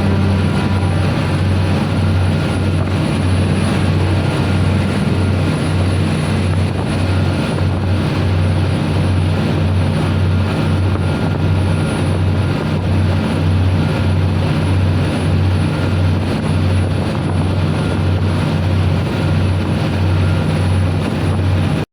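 Tugboat's diesel engines running at full speed on a sea trial: a loud, deep, steady drone that pulses evenly, with a rushing noise over it.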